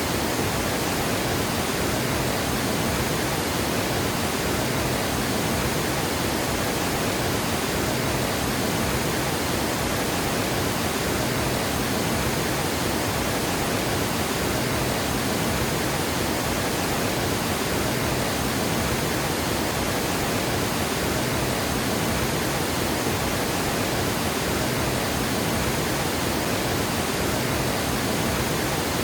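Water pouring over a dam spillway: a steady, full rush of falling water with no breaks.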